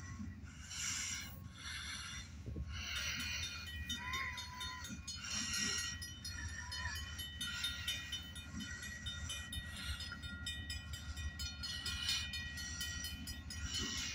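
Distant diesel freight train approaching slowly: a steady low rumble, with a faint steady high tone joining in about three and a half seconds in.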